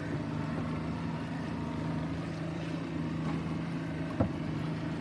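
Boat engine running steadily at sea, with a sharp knock about four seconds in.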